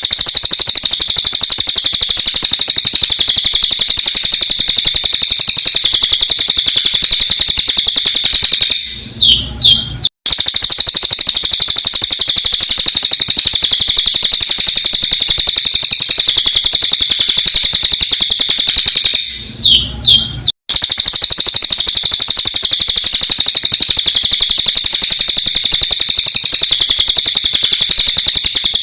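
Cililin bird song played sped up: a loud, fast, dense high-pitched twittering that runs for about eight seconds at a time. It breaks off briefly for a few separate notes, twice, then starts again, the same stretch repeating about every ten seconds in a loop.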